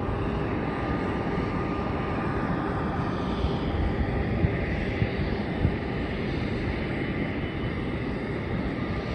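Jet airliner engines running steadily: a broad, even rumble with a faint steady whine over it.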